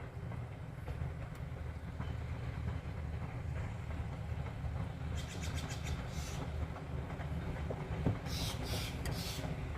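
Passenger train running on the rails with a steady low rumble. Short bursts of high hissing rattle come in past the middle and again near the end.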